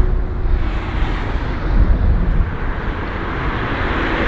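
Traffic passing on a street, with wind buffeting the microphone in an uneven low rumble; the rushing sound of a vehicle builds near the end.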